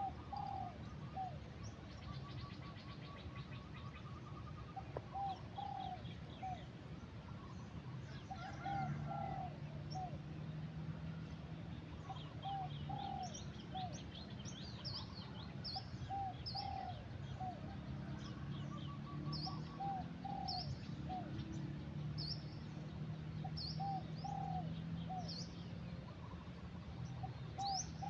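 Doves cooing in short repeated phrases, with small birds chirping high above them over a low steady hum.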